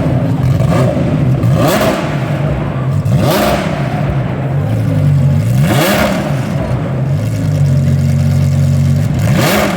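Cars driving past at speed one after another, four quick pass-bys with engine pitch rising and falling as each goes by, over the steady hum of an engine running nearby.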